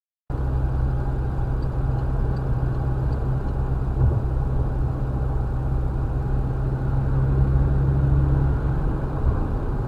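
Steady low rumble of a car's engine and road noise heard inside the cabin, with a light thump about four seconds in and another near the end.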